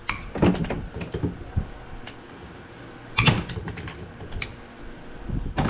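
A run of irregular clicks and knocks, with louder clusters about half a second in, a little past three seconds, and near the end.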